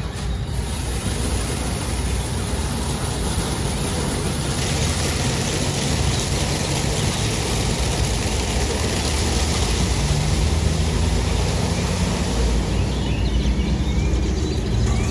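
Automatic car wash working on a vehicle: a steady rushing hiss over a low engine hum, the hiss stronger from about four seconds in until about twelve.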